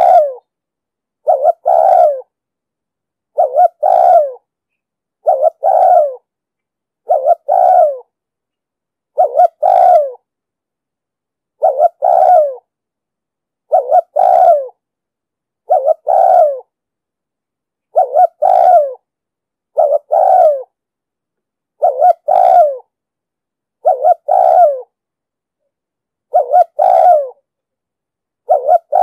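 Spotted dove cooing: a two-part coo, a short note followed by a longer one that falls away at the end, repeated steadily about every two seconds. This is the 'thúc gù' coo that keepers play to train captive doves and to lure wild ones.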